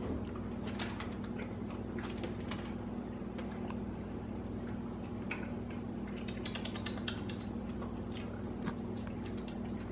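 Soft chewing with scattered small wet mouth clicks as a frozen Greek yogurt bar is eaten, over a steady low hum.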